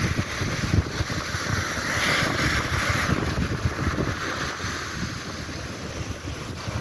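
Wind buffeting the microphone over the wash of ocean surf, the surf hiss swelling a couple of seconds in and then easing.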